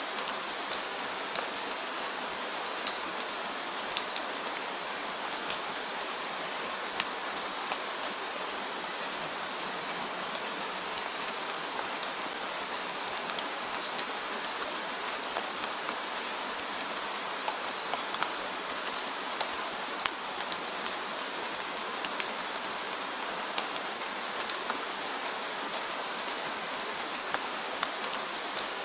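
Steady rain falling on a surface, a constant hiss with scattered sharp drop ticks.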